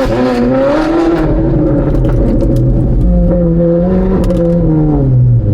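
Ferrari 458 Spider's V8 running loud through straight-piped race exhaust headers, revving up at the start, easing off, holding a steady note and then dropping away near the end, with a few light crackles.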